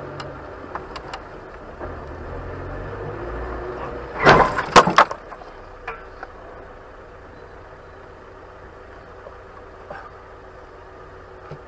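Steady car road and engine noise, broken about four seconds in by a short cluster of loud bangs and knocks.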